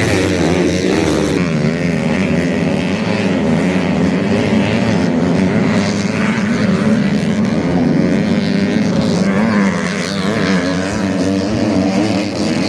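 165cc motocross dirt bike engine revving hard while riding, its pitch rising and falling continuously with the throttle.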